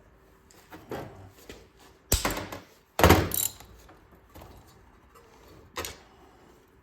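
A few separate heavy thunks and clunks of tools or metal parts being picked up and set down on a workbench. The loudest comes about three seconds in, another just before it, and a lighter one near the end.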